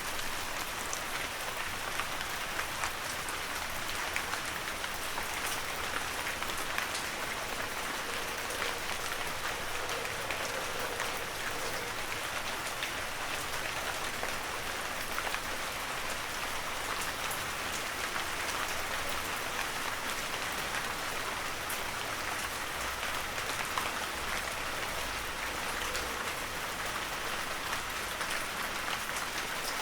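Heavy rain falling steadily, an even hiss made up of countless drops, with individual drops ticking through it.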